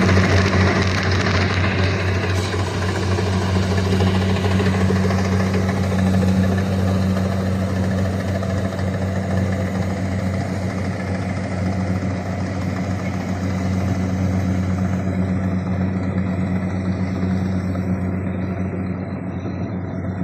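Kubota rice combine harvester running steadily, its engine holding a low, even drone with a noisy mechanical hiss above it that thins out in the last few seconds.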